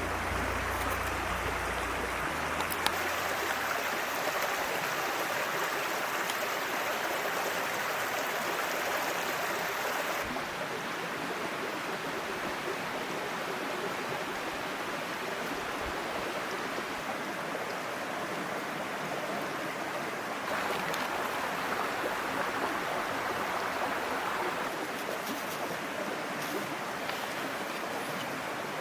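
Small mountain stream babbling steadily over rocks, its sound shifting slightly in tone a couple of times.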